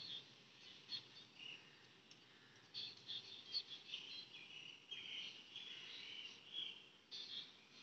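Faint, irregular chirping of small birds: short high chirps every fraction of a second, running together into a longer chattering stretch in the middle.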